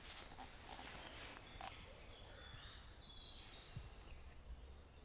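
Faint songbird calls: short, high chirps and trills that come and go throughout.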